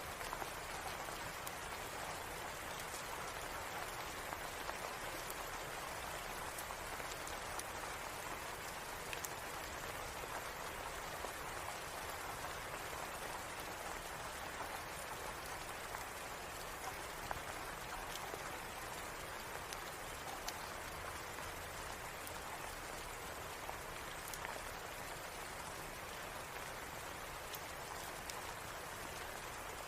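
Steady rain: an even, unbroken hiss with scattered faint ticks through it.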